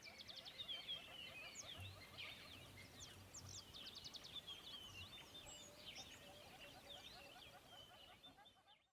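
Faint chorus of many birds calling at once, a dense mix of quick high chirps and lower repeated notes, which cuts off just before the end.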